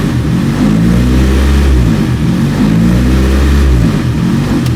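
Car engine idling with a surge: the revs rise and fall about every two seconds as the injectors cut in and out. The owner has ruled out vacuum leaks and leans toward a tune problem.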